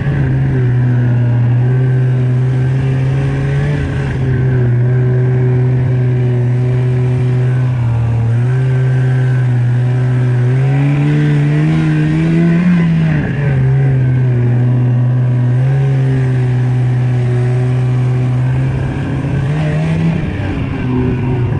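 Snowmobile engine running under throttle, a steady drone whose pitch dips briefly, then climbs for a couple of seconds before dropping back, and rises again near the end.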